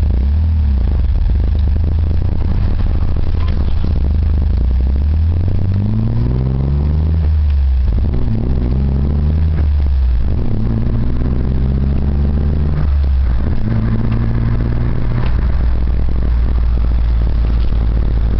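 1997 Isuzu Rodeo's V6 running through a custom 2.5-inch exhaust with a high-flow cat and MagnaFlow muffler: a deep, steady exhaust drone. Its pitch climbs and drops back several times as the revs rise and fall, then holds steadier near the end.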